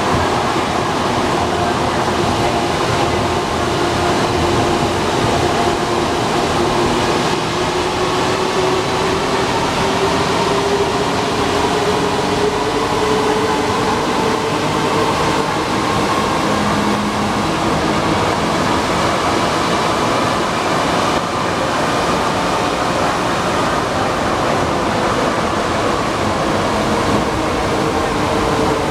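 Alstom NS-93 rubber-tyred metro train running, a steady rumble and rush of the running gear with a motor whine that slowly rises in pitch as the train gathers speed.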